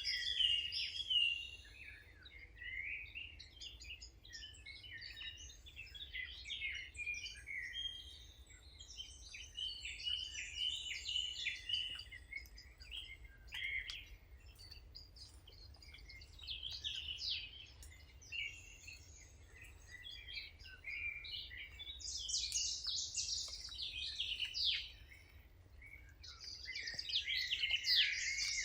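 Several songbirds singing and chirping at once, a dense overlapping chorus of short high-pitched chirps and trills, growing louder about three-quarters of the way through and again near the end.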